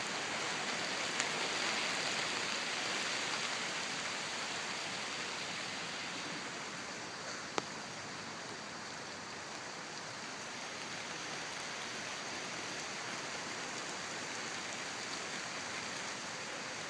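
Steady rain falling, an even hiss, with two brief sharp ticks.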